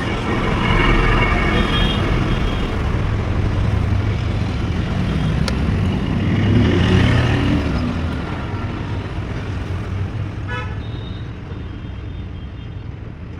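Tractor diesel engine running steadily, with a higher tone over it in the first two seconds and again around seven seconds in; it grows quieter after about eight seconds.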